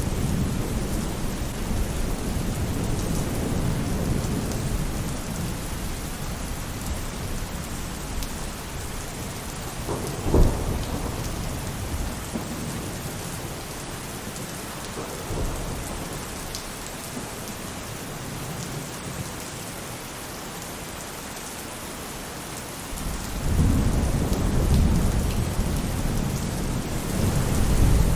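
Steady rain falling on a roof during a thunderstorm. A low rumble of thunder fades over the first several seconds, a single sharp crack comes about ten seconds in, and a new rumble builds from about two-thirds of the way through.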